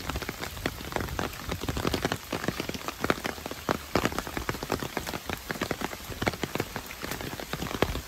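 Rain falling, with many separate, irregular drop strikes close to the microphone over a low rumble.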